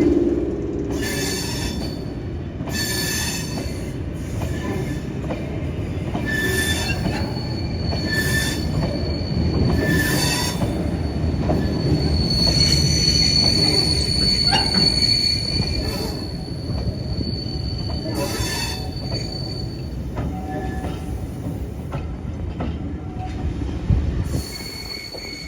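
Railway train moving slowly along the track with a low rumble and scattered knocks. A thin high wheel squeal comes in about a quarter of the way through and stops a little past the three-quarter mark.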